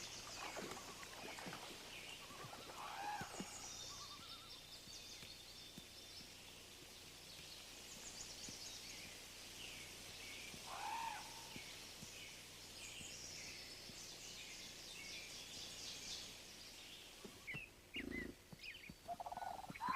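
Faint wetland ambience with several birds chirping and calling on and off, including a couple of louder arching calls about three and eleven seconds in.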